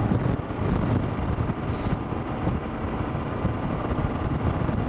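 Motorcycle engine running at road speed, with wind noise over the microphone.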